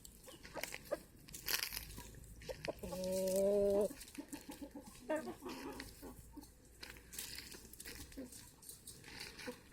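Domestic poultry: chickens clucking, with one loud drawn-out call lasting about a second, about three seconds in, and a quick run of short clucks just after. Scattered clicks and rustling throughout.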